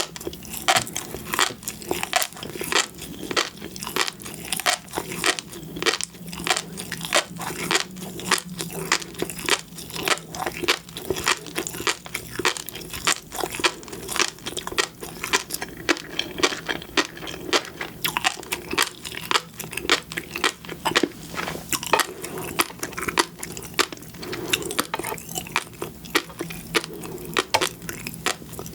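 Close-miked chewing of seafood, a dense run of small crisp pops and clicks, several a second.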